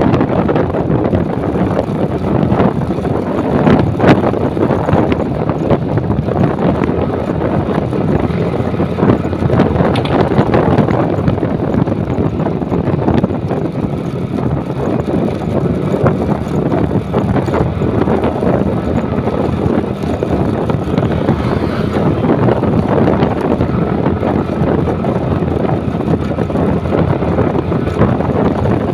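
Wind rushing over the microphone of a moving motorcycle, a loud, steady rumble with road and engine noise beneath.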